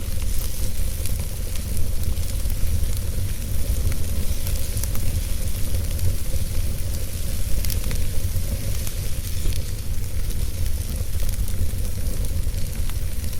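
Wood fire burning in a fireplace: a steady low rumble with a light hiss, broken by scattered crackles and a few sharper pops.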